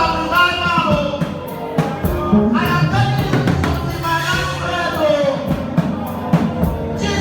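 Live gospel music: a singer's voice over a band with a drum kit keeping a steady beat.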